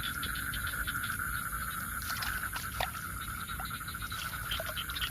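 Night chorus of calling animals in a wet field: one continuous, high, slightly pulsing trill, with scattered short chirps and clicks and a few brief falling calls about two to four seconds in.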